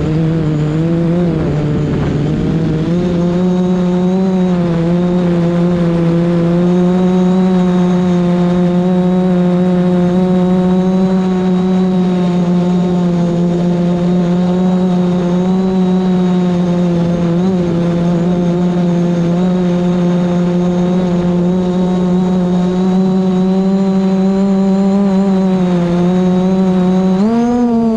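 DJI Mavic Pro quadcopter's motors and propellers whining steadily while it holds against strong wind, the pitch wavering slightly, then rising sharply near the end as the motors speed up. Wind rumble on the microphone in the first few seconds.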